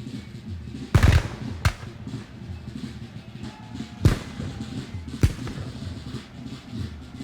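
Battlefield gunfire: four separate gunshots, the loudest about a second in, a second one just after it, and two more around four and five seconds in. They sound over a steady low rumble of battle ambience.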